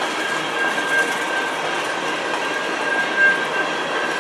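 Covered hopper cars of a CN freight train rolling past: a steady rushing rumble of steel wheels on rail with light clickety-clack, a louder clack about three seconds in, and a steady high tone above it.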